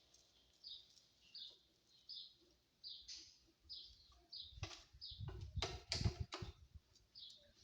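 A small bird chirping, short high chirps repeating about every two-thirds of a second, with a cluster of knocks and thumps around the middle.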